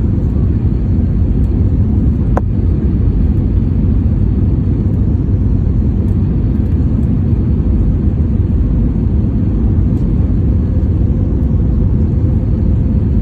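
Steady low rumble of engine and airflow noise inside a passenger airliner's cabin in flight, with one faint click about two seconds in.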